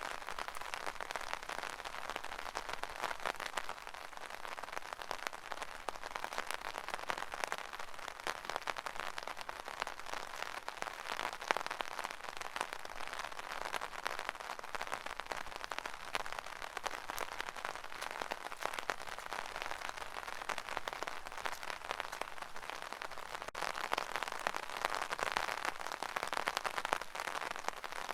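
Rain falling on an umbrella: a steady, dense patter of many small drop hits, with no pause or change.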